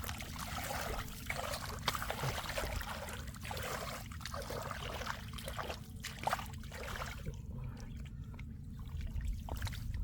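Floodwater splashing and trickling in irregular little bursts over a steady low rumble.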